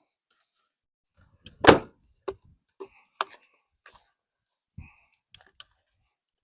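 A handful of separate sharp clicks and knocks from hand tools being handled during the oil change. The loudest comes about two seconds in.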